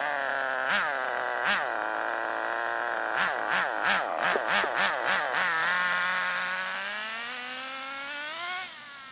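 ACME Cyclone RC car's .18 nitro engine, running rich during break-in, blipped twice and then in a quick string of about seven throttle blips. It then holds a steadier, higher speed that slowly rises in pitch and fades near the end.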